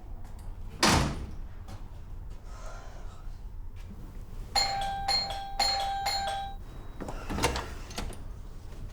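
A door thuds shut about a second in; a few seconds later an electronic doorbell rings in several quick repeated chimes for about two seconds, and near the end a door is heard opening.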